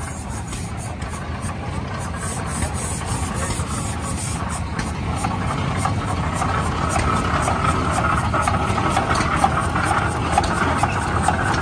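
1908 Geiser Peerless steam traction engine running as it backs up: a steady low rumble with a quick, even beat, growing louder.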